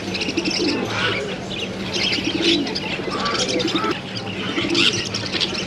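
Many birds chirping and twittering at once, with doves cooing in low repeated notes about once a second, over a steady low hum.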